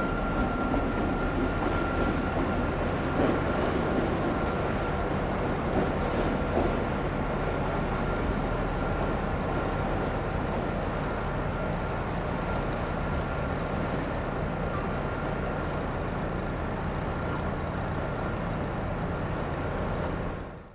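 Railway locomotive running steadily: a low hum with a thin steady high whine over it, a little busier in the first few seconds, cutting off abruptly near the end.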